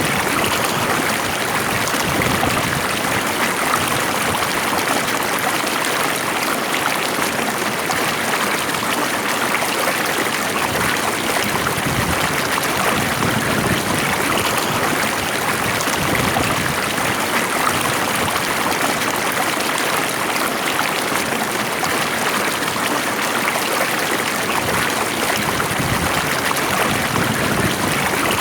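Stream water flowing steadily over stones in an even, continuous rush.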